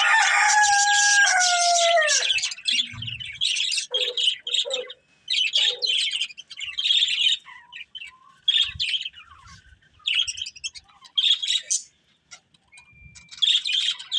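Budgerigars chirping and chattering in short, irregular bursts of high notes. A louder, longer held call that falls in pitch at its end fills the first two seconds.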